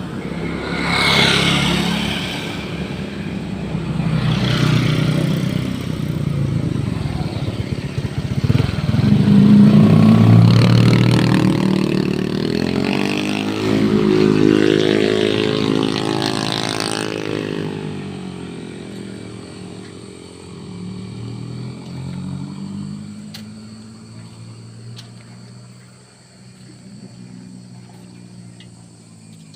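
Motor vehicles, likely motorcycles, driving past on the road. The engine sound builds to its loudest around the middle, with the pitch shifting as they go by, then fades away over the last ten seconds or so.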